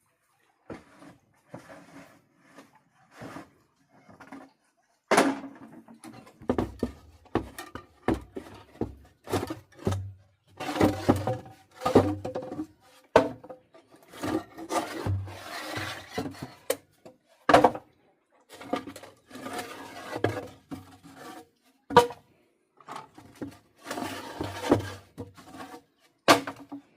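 Irregular knocks and thunks with bursts of rough clatter, the sharpest knocks a few seconds apart.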